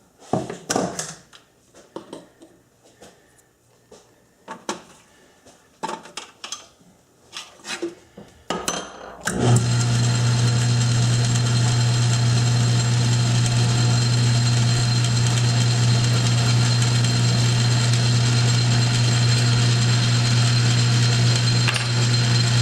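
Scattered light clicks and knocks of tools being handled, then about nine seconds in a South Bend metal lathe is switched on and runs with a steady hum.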